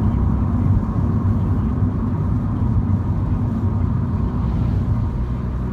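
MINI car driving, with a steady low rumble of road and engine noise.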